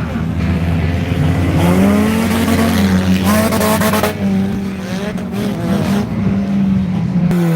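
Stock car engines running hard on a race track, their pitch rising and falling as the drivers rev and lift. A harsher, rasping stretch comes about three seconds in, and an engine note falls away at the end.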